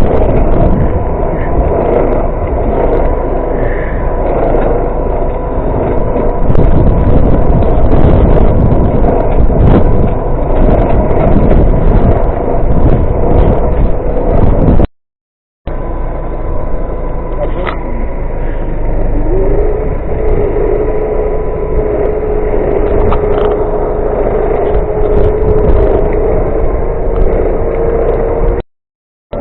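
A motor vehicle running, with a loud, heavy rumble. Its engine note rises about two-thirds of the way through and then holds steady. The sound cuts out briefly near the middle and again near the end.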